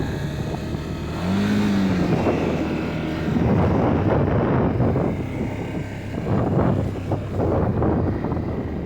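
Can-Am Outlander 850 XT ATV's V-twin engine running under way, with a brief rise and fall in engine pitch a little over a second in, over a steady rushing noise.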